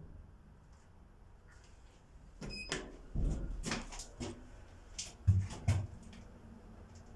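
Lift doors and mechanism of a hydraulic lift making a series of clicks and clunks, with a brief high beep about two and a half seconds in and two heavier thumps a little after five seconds.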